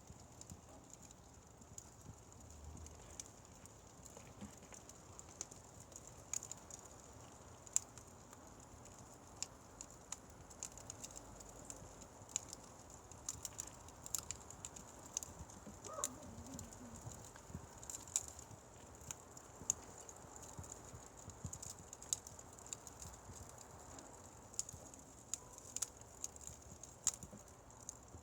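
Firewood fire burning, with irregular sharp crackles and pops over a faint steady hiss.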